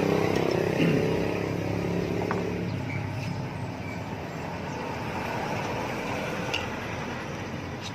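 A motor vehicle engine running, loudest in the first second and fading away over the next couple of seconds, leaving a steady low hum.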